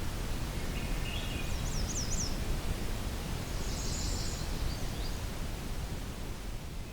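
Faint songs of a few distant small birds over a steady outdoor background hiss with a low rumble. A quick run of four high notes comes about a second and a half in, and a short high trill comes a little past the middle.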